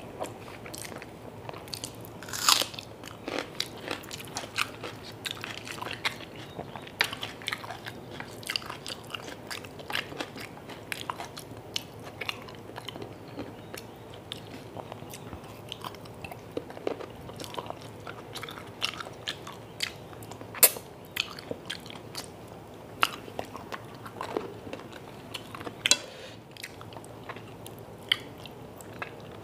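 Close-miked eating sounds of chicken curry and rice eaten by hand: wet chewing and lip smacks, with many short sharp clicks and a few louder smacks scattered throughout.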